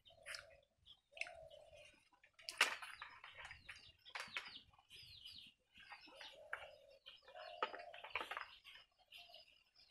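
Birds chirping and calling around the yard in many short, quick calls, louder about two and a half seconds in and again near eight seconds in.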